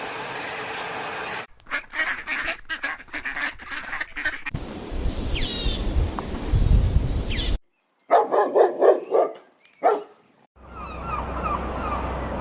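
Waterfowl calling, with goose-like honks and quacks, in several short clips cut one after another.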